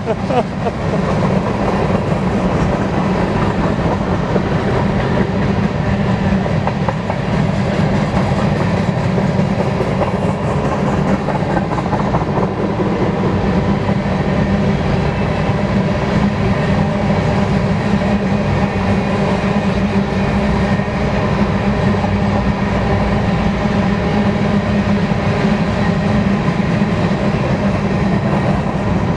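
Loaded covered hopper cars of a long BNSF grain train rolling past at speed: a steady rumble and rattle of steel wheels on the rails.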